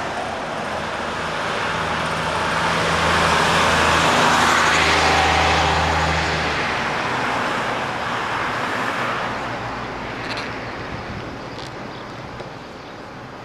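A motor vehicle driving past on the road: its engine and tyre noise build to a peak about four seconds in, then fade away.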